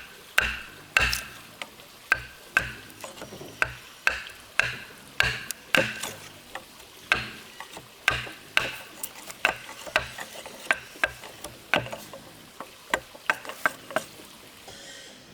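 A hand tool striking wood over and over, one or two sharp knocks a second, each with a short ring, uneven in strength; the knocks die away near the end.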